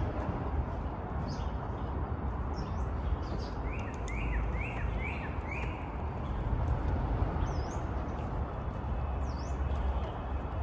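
Small birds chirping over a steady low rumble: a quick run of four short chirps a little over a third of the way in, then a couple of sharp, high calls near the end.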